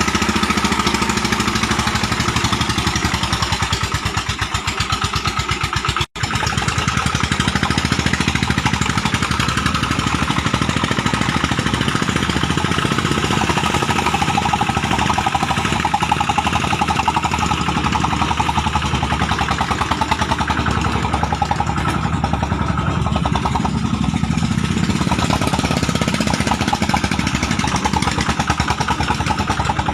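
Single-cylinder 'dompeng' diesel engine of a homemade palm-fruit hauler running steadily with a rapid, even firing beat. The sound breaks off for an instant about six seconds in, then carries on.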